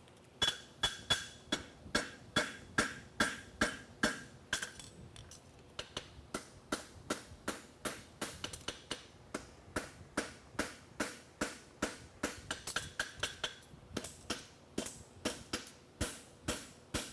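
Farrier's hammer striking a steel horseshoe on the anvil, about three blows a second, each with a short metallic ring. The blows stop for about a second roughly a third of the way in, then carry on, as he draws out and flattens the shoe's branch.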